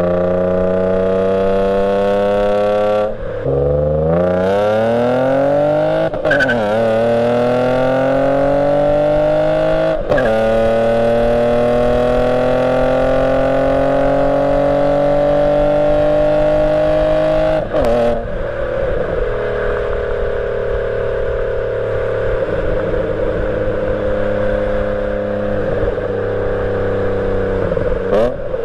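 BMW E34 525i inline-six running through a glasspack and a "fart cannon" muffler, accelerating hard with upshifts about 3, 6 and 10 seconds in, where the pitch drops each time. It then pulls long and rising in the next gear and settles to a steady cruise at about 18 seconds.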